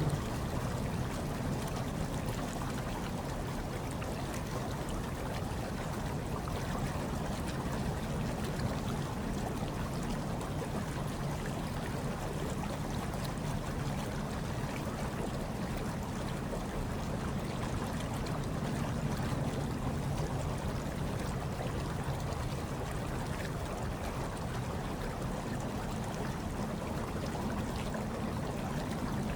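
Hot tub water churning and trickling steadily, with a low band that swells and fades a little.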